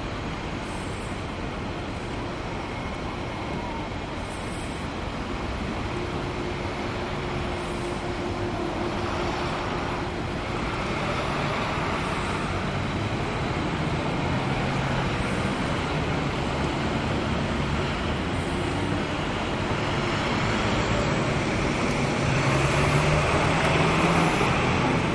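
Push-pull commuter train of ex-NJ Transit Comet I coaches pulling out of a station, shoved from the rear by an ALP44 electric locomotive: a steady rumble of wheels on the rails that grows louder toward the end.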